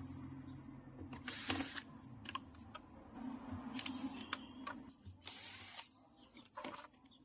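Cordless screwdriver running in several short spurts, each about half a second, backing screws out of a refrigerator's rear panel, with small clicks of screws and metal being handled between the spurts.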